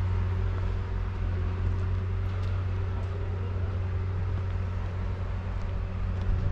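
Steady low drone of a motor vehicle on the move, engine hum with road noise.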